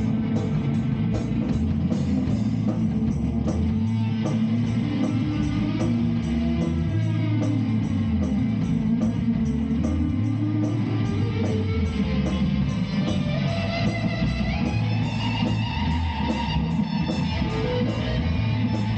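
Instrumental rock jam: electric guitar and bass guitar playing over a steady beat.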